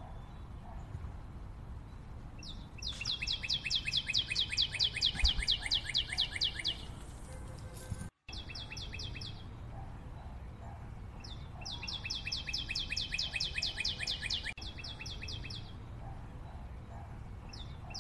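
A bird chirping in runs of quickly repeated high notes, each run lasting a few seconds, over a steady low background hiss. The audio drops out briefly about eight seconds in.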